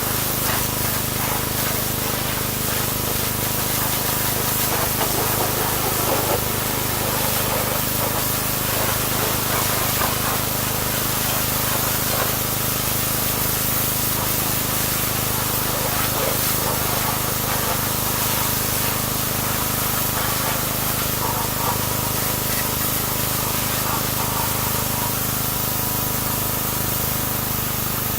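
Pressure washer spraying in a continuous hiss, with the steady hum of its pump running underneath.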